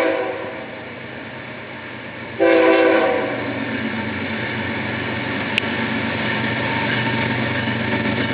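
Horn of a BNSF diesel freight locomotive: a chord blast ending just as it starts, then a second short blast about two and a half seconds in. After it, the locomotives' diesel engines and the train's rumble build steadily as the train comes on, with one sharp click a little past halfway.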